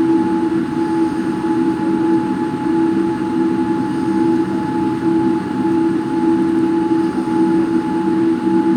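Airliner cabin noise with the jet engines running: a steady, loud hum and rumble carrying a constant whine, unchanging throughout.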